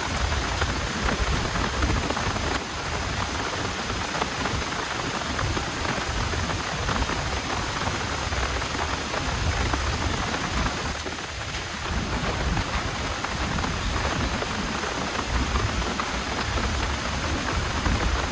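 Heavy rain falling steadily over a low rumble.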